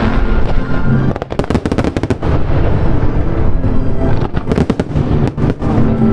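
Fireworks going off in a rapid string of sharp bangs over loud show music, with the bangs most dense between about one and five seconds in.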